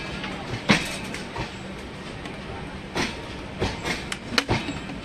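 Pune–Baramati MEMU electric multiple-unit train running along the track, heard from aboard a coach: a steady rumble and low hum with irregular sharp clanks from the wheels and running gear, one about a second in and several bunched in the second half.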